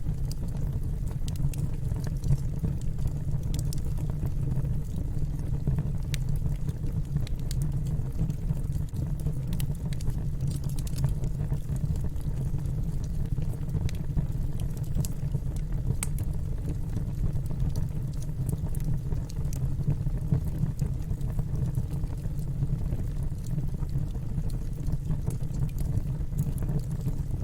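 Wood fire in a fireplace crackling: scattered sharp pops and snaps over a steady low rumble of the burning fire.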